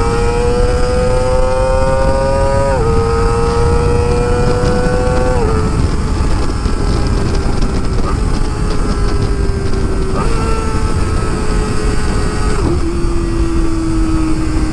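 Kawasaki ZX25R's 250 cc inline-four, through an Akrapovic exhaust, under way. The engine note climbs and drops twice with upshifts in the first six seconds, then sinks as the bike slows. It steps up once at a downshift about ten seconds in and drops again near the end. Wind rushes over the microphone throughout.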